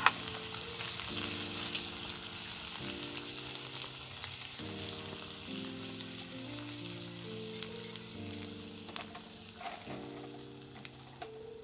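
Food sizzling in a hot pan, with a few light clicks, over soft background music of slow held chords. The sizzle thins out near the end.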